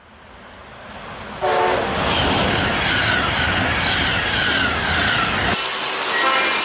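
Train horn sounding briefly about a second and a half in and again near the end, over loud train running noise with repeated high falling tones in between.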